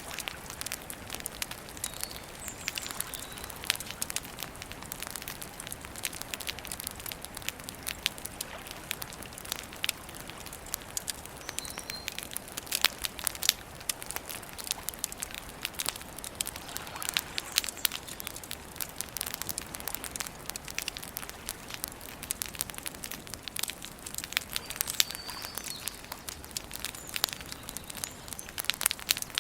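Wood campfire burning, with dense crackling and sharp pops and snaps over a soft steady hiss. A bird chirps faintly a few times.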